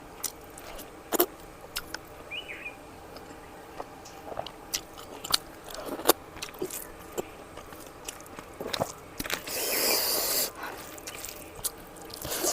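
Close-up eating sounds: chewing and biting with scattered sharp clicks and smacks, and a noisy scrape lasting about a second around ten seconds in.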